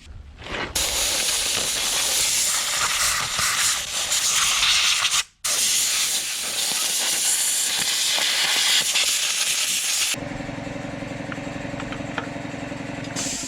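A loud, steady hiss that cuts out for a moment about five seconds in and stops about ten seconds in, after which a machine hum holds one steady pitch.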